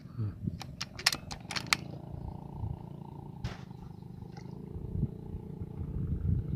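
Steady low rumble of strong wind on the microphone, with a quick run of sharp metallic clicks between about half a second and two seconds in and another single click later, from the PCP air rifle being handled between shots.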